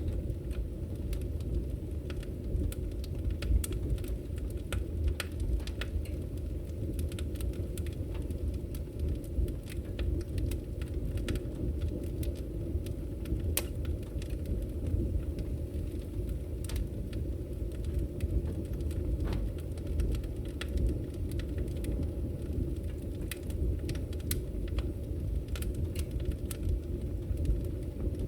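Firewood burning: a steady low rumble of the flames with frequent sharp crackles and pops at irregular intervals.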